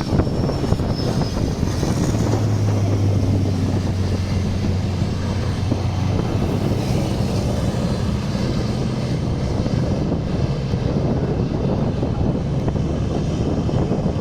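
Big diesel engines of racing trucks running, a steady loud drone with a held low tone for a few seconds.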